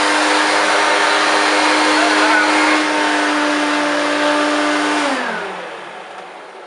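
1994 Hoover Turbopower 1 U2806 upright vacuum cleaner running, a steady, immensely loud motor whine. About five seconds in it is switched off and the motor winds down, its pitch falling as the sound fades.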